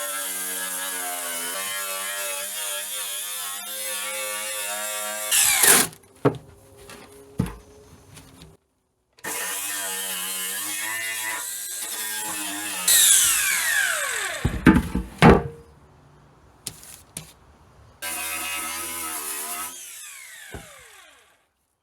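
Power drill spinning a bristle-style wire-brush wheel against a steel pan to strip rust, in three runs of a few seconds each. After the first two runs the motor's whine falls as it spins down, with a few knocks and clatter.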